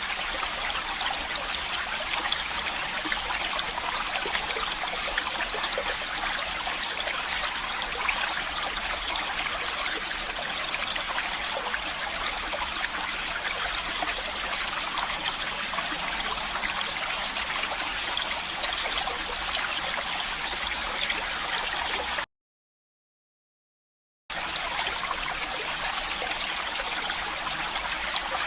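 Running stream water, a steady, dense rush with fine splashy flicker. It cuts out to total silence for about two seconds near the end, then resumes as before.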